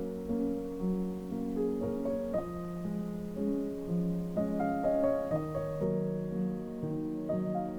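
Background music: a gentle, slow solo piano playing soft held chords and a quiet melody.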